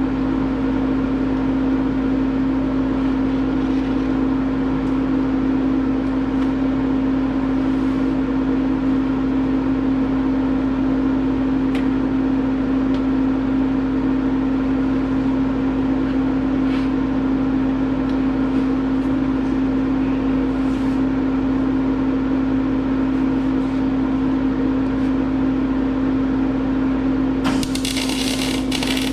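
A gas-shielded welding machine, switched on, hums steadily with one low tone. Near the end a welding arc strikes and crackles.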